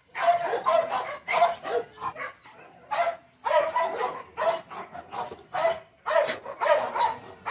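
A dog barking repeatedly, in runs of quick barks broken by short pauses.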